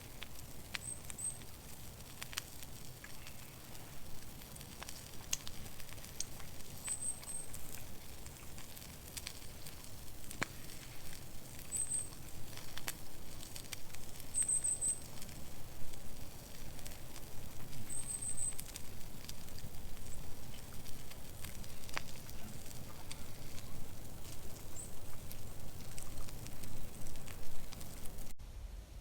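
Campfire crackling, with scattered sharp pops, and short clusters of very high chirps every few seconds. The sound cuts off abruptly near the end.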